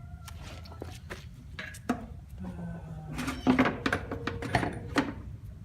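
Metal tools and parts clinking and knocking as they are handled, a run of sharp knocks that is loudest from about three and a half to five seconds in.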